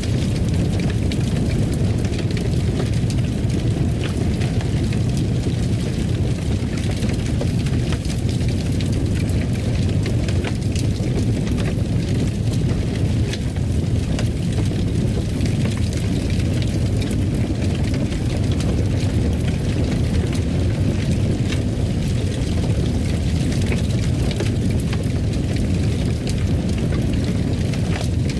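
Wood fire in a fireplace crackling, with frequent small pops over a steady low rumble of flames.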